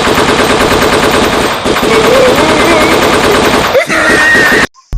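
Machine-gun sound effect: loud, rapid automatic fire in one continuous burst that cuts off abruptly shortly before the end.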